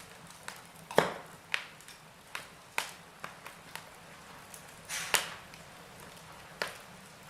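Wood fire burning in a fireplace, the logs crackling with sharp, irregular pops over a faint steady hiss; the loudest pops come about a second in and just after five seconds.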